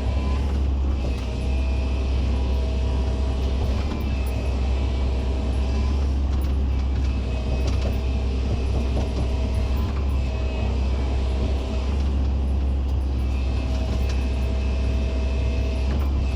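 Hydraulic excavator's diesel engine running steadily under load, with a hydraulic whine that comes and goes every few seconds as the boom and bucket work.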